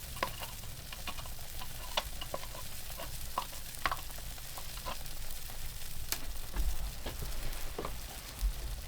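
Food sizzling in a frying pan: a steady hiss with scattered sharp pops and clicks, and a few dull low knocks in the second half.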